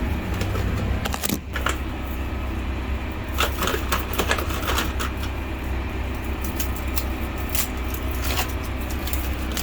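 A steady low mechanical hum, with scattered clicks and clatter of small items being handled a few times.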